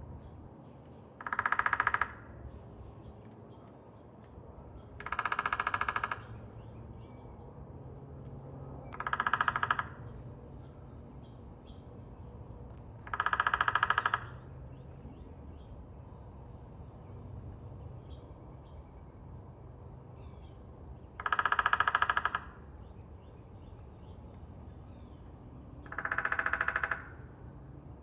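Woodpecker drumming: six rapid drum rolls of about a second each, several seconds apart.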